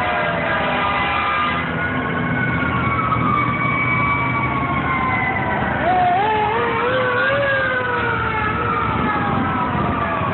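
Several fire engine sirens sounding at once, mostly long wails sliding slowly down in pitch, with one climbing in quick steps about six seconds in. The trucks' engines run underneath as a steady low hum.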